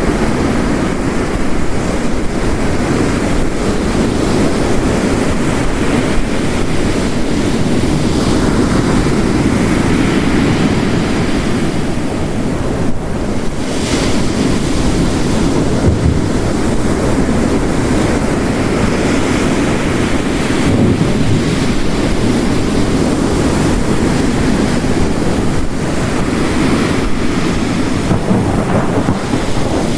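Heavy rain hiss layered with ocean waves crashing on the coast, the surf rising and falling in slow swells.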